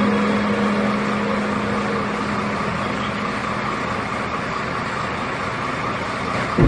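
Airliner's engines at takeoff: a steady, even rush of engine noise that slowly fades.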